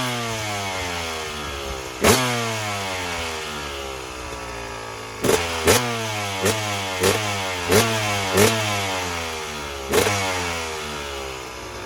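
Dirt bike engine idling, with about eight sharp throttle blips. Each rev falls slowly back to idle, and a quick run of blips comes in the middle.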